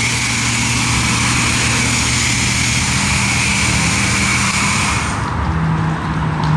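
Car-wash machine running with a steady hiss over a motor hum; the hiss cuts off suddenly about five seconds in, leaving only the low hum.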